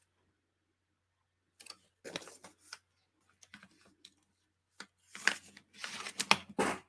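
Paper and craft supplies handled on a work table: scattered rustles with light taps and clicks, starting after about a second and a half of quiet and getting busier near the end.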